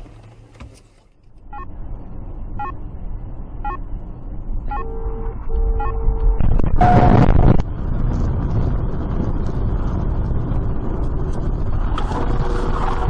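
A car on the road with steady road noise that builds up. Faint ticks come about once a second, then a short steady tone, then a loud noisy burst lasting about a second roughly halfway through, after which the road noise carries on.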